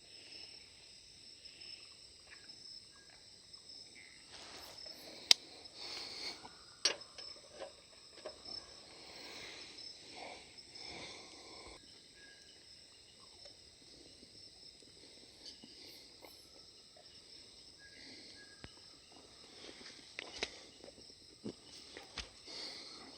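Insects chirring steadily in a high, even drone, with a few sharp clicks or knocks about five and seven seconds in and again near the end.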